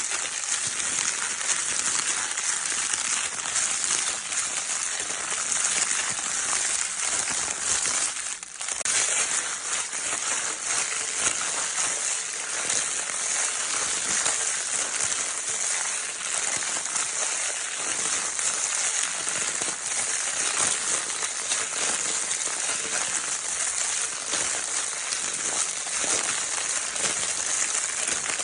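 Crinkle-paper baby toy being rustled and scrunched continuously, a dense, steady crackling hiss that briefly drops away about eight seconds in.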